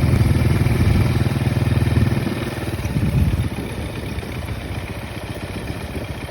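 A small engine running steadily, loud for about two seconds, then dropping away to a lower level after about three and a half seconds.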